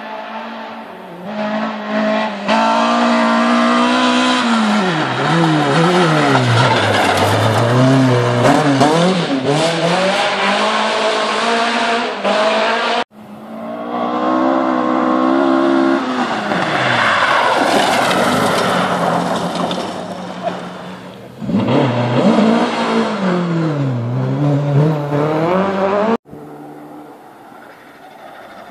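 Rally cars being driven hard past the spectators, in two separate passes. Each engine revs high, then its pitch drops and climbs again as the car slows and accelerates away. A quieter shot follows near the end.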